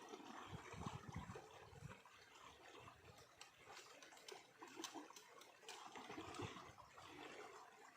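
Faint water trickling and lapping, irregular, with scattered small clicks and a few soft low thumps.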